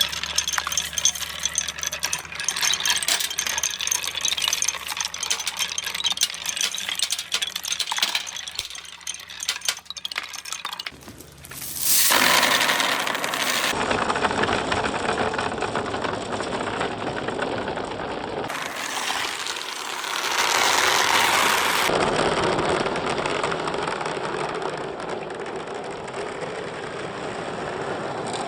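Marbles clicking and clattering rapidly along a handmade marble run, then from about eleven seconds in a loud continuous rolling rattle of many marbles running together, in several short edited shots.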